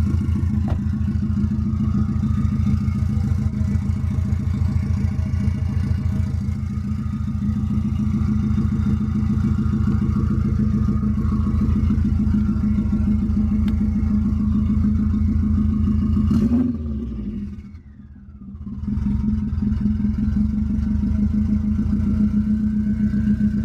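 Turbocharged Subaru flat-four with Brian Crower 272 cams running through an open 3-inch catless downpipe with no exhaust behind it: a loud, raw, steady, pulsing exhaust note. About three quarters of the way through it briefly drops away, then comes back at the same level.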